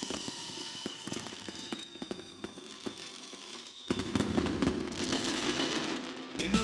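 Fireworks going off: scattered crackling pops, then about four seconds in a louder, denser stretch of bursts lasting about two and a half seconds.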